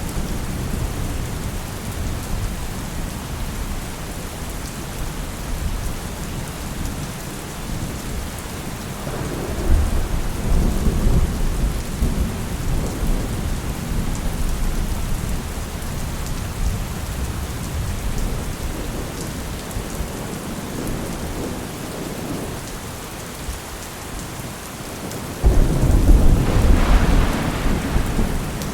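Steady rain with thunder: a low rolling rumble about ten seconds in, and a sudden, louder thunder crack and rumble near the end.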